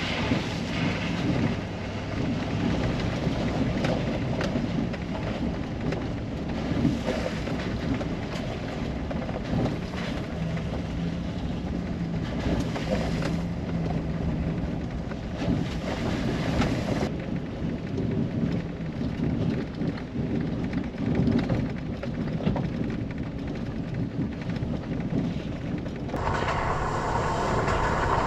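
Chevrolet Silverado 2500HD truck on the move: a steady low engine drone under a constant rushing of road, wind and rain noise. About 26 seconds in the rushing grows brighter and louder.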